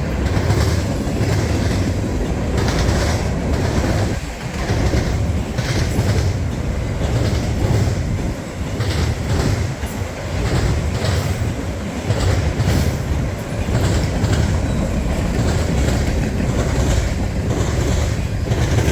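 Freight train cars rolling past close by: a steady loud rumble with repeated clickety-clack of wheels over the rail joints and some wheel squeal.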